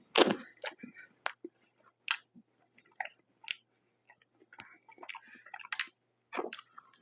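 Close-miked chewing of a bite of pizza: a loud bite near the start, then wet, irregular chewing sounds with small clicks.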